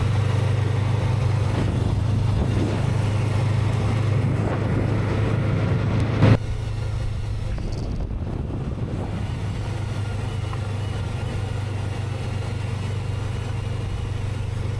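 Honda CB500X motorcycle under way: a steady drone of its parallel-twin engine mixed with wind and road noise. A brief loud knock about six seconds in, after which the sound is slightly quieter.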